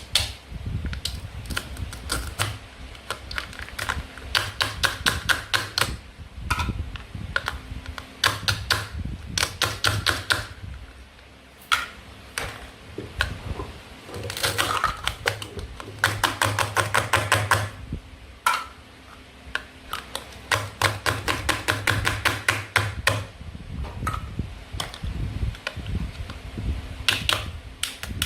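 Toy play food being cut with a toy knife: runs of rapid, sharp clicks and taps, each lasting a second or two, with short pauses between them.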